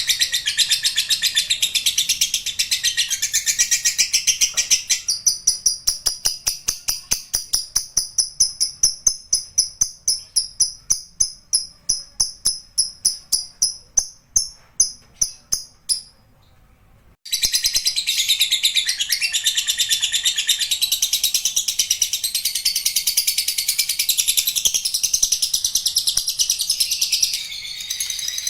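Lovebird singing its long 'ngekek', a shrill high-pitched chatter. About five seconds in, it turns into a run of rapid separate notes that slowly get further apart. It breaks off for about a second, then the dense chatter starts again.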